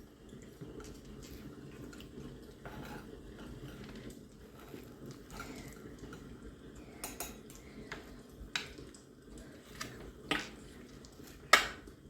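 Cutlery clinking against plates and dishes during a meal, a few sharp clicks spread apart, the loudest near the end, over low background noise.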